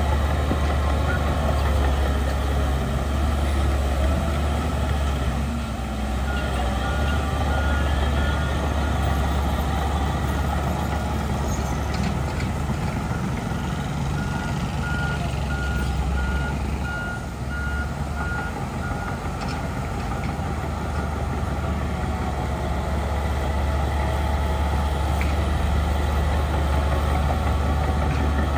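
Heavy diesel engines of a bulldozer and dump truck running steadily. A reversing alarm beeps in a regular series about six seconds in, and again for several seconds from about fourteen seconds.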